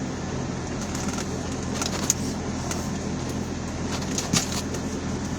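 Vehicle engine idling, heard from inside the cab, with a fan blowing a steady hiss and a few small clicks and knocks, the sharpest about two seconds in and again about four seconds in.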